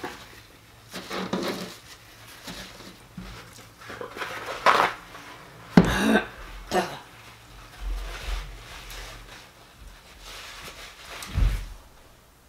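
A person chewing fried fish: irregular wet mouth clicks and smacks, with a louder short sound about six seconds in and another about eleven seconds in.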